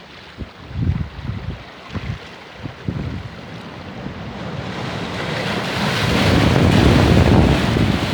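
Sea surf on a beach with wind buffeting the microphone in short low gusts; about five seconds in, a wave's rush swells up and crashes, loudest near the end.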